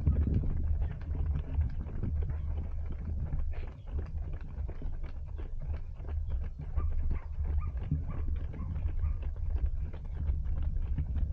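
Running footsteps at a steady cadence of about three strides a second, over a steady low rumble.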